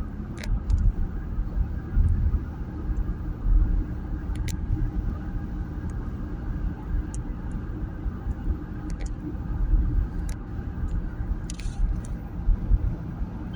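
Steady low road rumble inside a moving taxi, with a few scattered light clicks.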